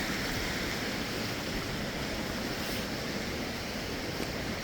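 Steady rushing of a waterfall and its stream.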